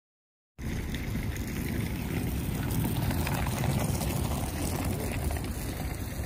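Half a second of dead silence at an edit, then steady outdoor noise dominated by wind rumbling on the phone's microphone.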